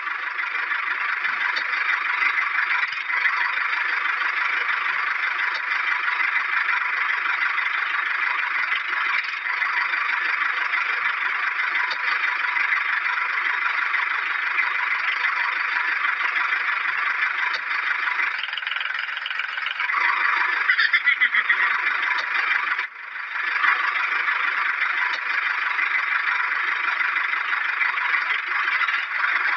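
A small electric toy motor whirring steadily with its gears, breaking off briefly about 23 seconds in before running on.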